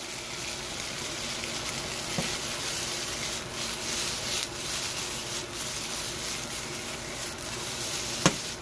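Sauce-coated food sizzling steadily in a hot wok as it is stir-fried and tossed, with a sharp knock near the end.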